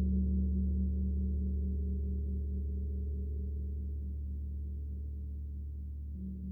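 An 80 cm Peter Hess Tam gong ringing out after a stroke: a deep, sustained hum with a pulsing, wavering overtone, slowly fading.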